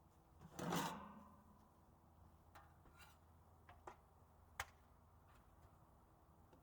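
A brief, loud clatter about half a second in, then several faint clicks and taps spread over the next few seconds.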